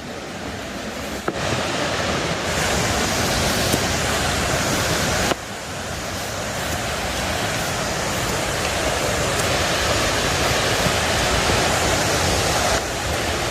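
Foster Falls waterfall, a steady rush of falling water. It grows louder about a second in and dips suddenly about five seconds in before building back.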